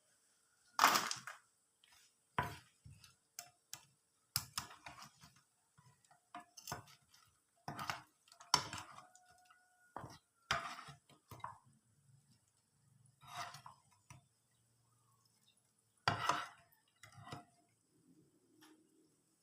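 Irregular clinks and scrapes of a utensil against a pan or dish, coming about once or twice a second and loudest about a second in and again near the end.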